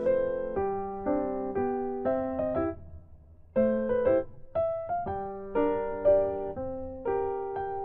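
Background piano music: a slow melody of struck notes over chords, with a brief pause about three seconds in.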